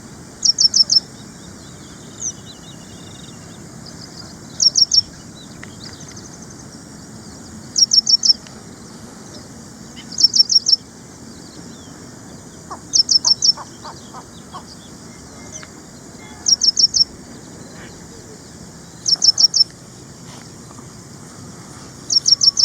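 Ashy prinia singing: short, high phrases of three or four quick notes, repeated about every three seconds.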